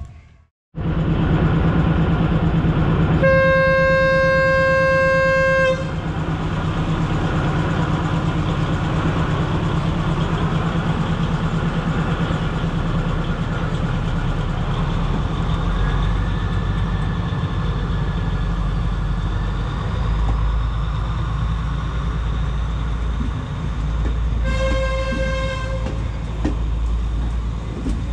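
Diesel passenger train passing close by, its engine humming steadily and its wheels rumbling on the rails. The horn sounds one long blast a few seconds in and a shorter one near the end.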